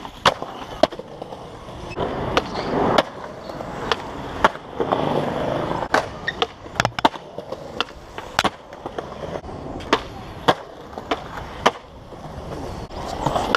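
Skateboards rolling on concrete, with repeated sharp pops and clacks of boards hitting the ground.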